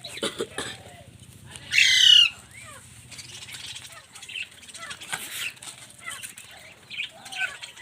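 Pet parrots and budgerigars in a colony calling: one loud squawk about two seconds in, then scattered short chirps and squawks.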